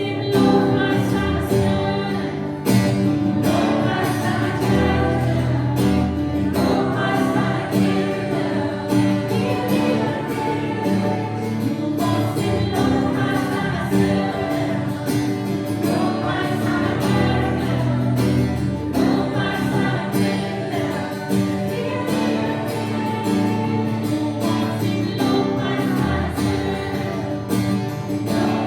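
Live worship music: a group singing a German praise song together over acoustic guitar and steady low accompaniment.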